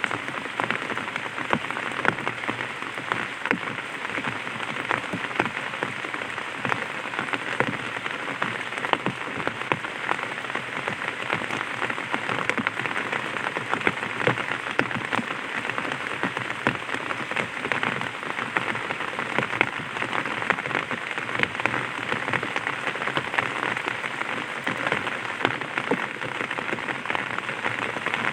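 Light rain falling on an umbrella: a dense, steady run of small drop ticks over an even hiss.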